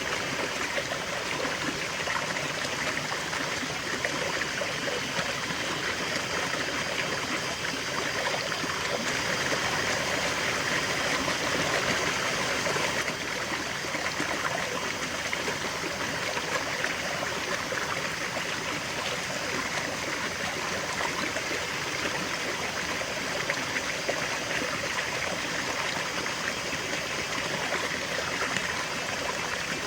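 A river flowing, a steady rush of water over stones with some trickling and gurgling.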